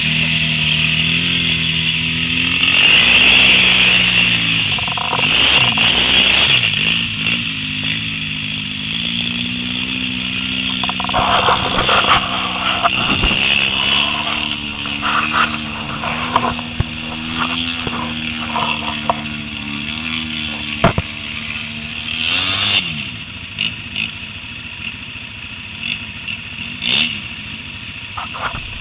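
ATV engine running, its pitch rising and falling with the throttle, then fading away about 23 seconds in. A constant hiss runs underneath.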